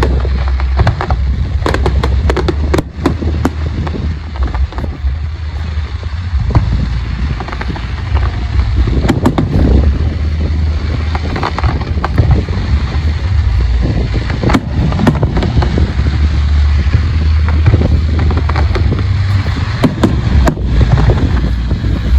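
Fireworks display going off, with repeated sharp bangs and crackling bursts, over a steady low rumble of wind on the microphone.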